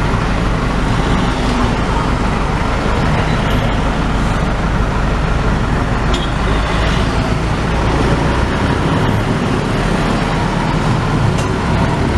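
Steady road-vehicle and traffic noise, a continuous low rumble.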